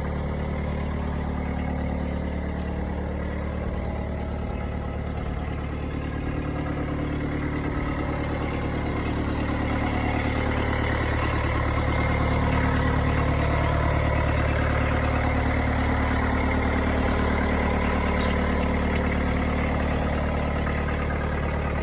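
Diesel engine running steadily at idle, growing slightly louder about halfway through.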